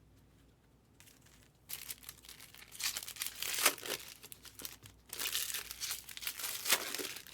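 Trading-card pack wrappers being torn open and crinkled as Topps Chrome Platinum Anniversary packs are opened. It starts about a second and a half in and runs in two bouts with a short pause around the five-second mark.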